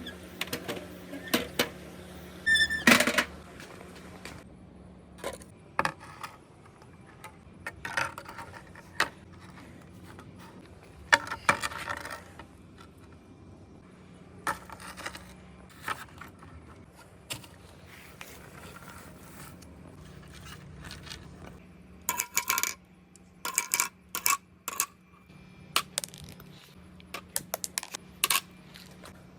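Marbles rolling and clacking through a handmade marble run, with scattered hard clicks and knocks. Dense bursts of rapid clicking come in the last third.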